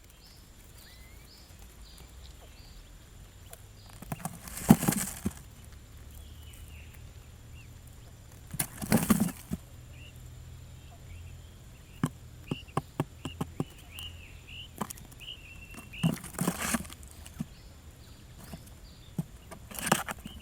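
A bird's wings flapping in four short bursts of about a second each, with scattered clicks and faint high chirps in between.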